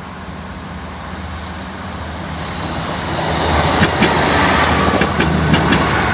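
Class 158 diesel multiple unit passing close by over a level crossing. Its rumble builds to a peak as it goes past, with a thin high whine as it draws near, then sharp paired clacks of its wheels over the rail joints.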